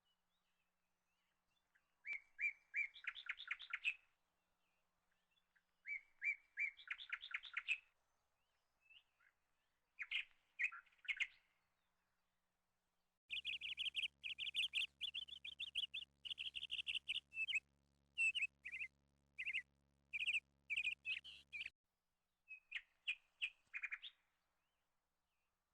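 A songbird singing in short phrases of rapid repeated chirps, each phrase lasting one to two seconds, with a longer run of chirps in the middle.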